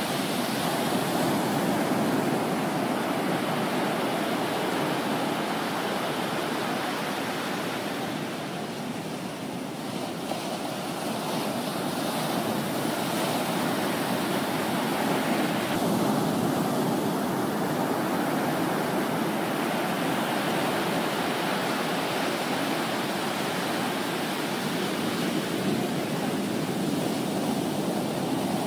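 Ocean surf from a typhoon swell, heard as a steady rush of breaking waves washing in. It eases briefly about eight to ten seconds in, then builds again.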